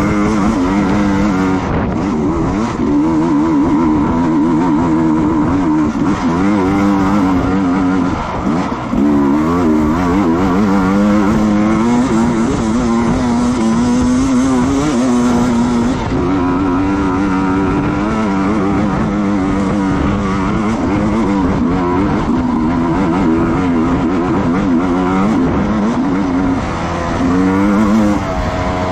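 Racing motorcycle engines at speed, running continuously, with the pitch repeatedly rising and falling as the throttle opens and closes through the gears.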